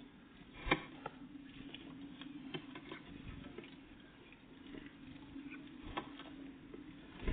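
Small birds feeding at a feeder: irregular light pecking taps, with a louder knock about a second in and another at the end, over a steady low hum.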